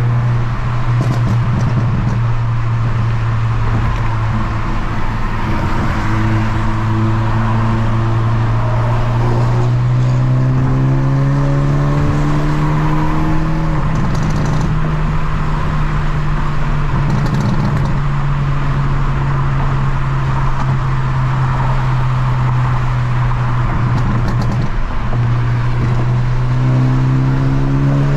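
Hyundai Elantra N's turbocharged 2.0-litre four-cylinder engine and exhaust under way, the engine note rising slowly, dropping back about 14 seconds in, holding steady, then rising again near the end.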